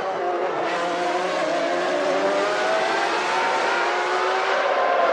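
Several 1991 Formula One racing cars' engines running at high revs together, their notes rising and falling as they change speed.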